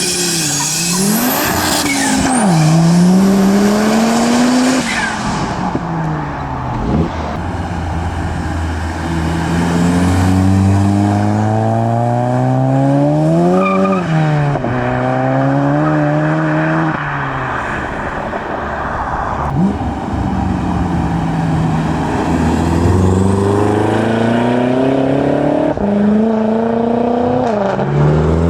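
Modified cars accelerating away one after another, their engines revving up through the gears with the pitch rising, dropping at each shift and rising again. A loud hiss fills the first few seconds.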